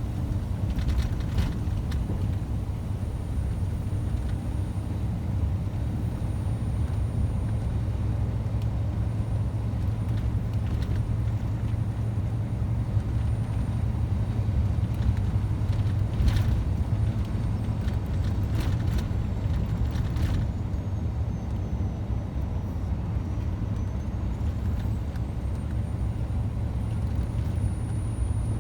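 Scania truck running steadily on the road, a constant low drone of engine and road noise, with a few short clicks or knocks in the middle.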